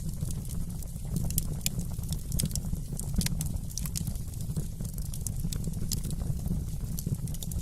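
Wood fire in a fireplace burning with a steady low rumble and frequent sharp crackles and pops.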